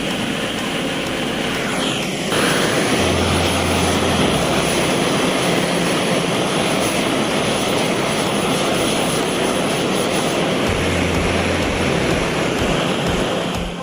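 Gas torch flame roaring steadily while heating the fluxed tray parts for silver soldering. It grows louder a little over two seconds in and cuts off at the end.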